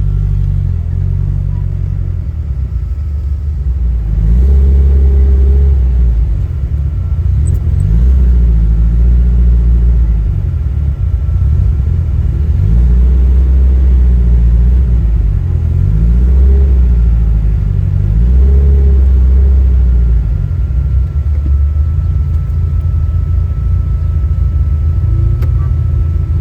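Classic car engine running under load, its pitch rising and dropping again every few seconds as it accelerates and changes gear, with a faint steady high whine.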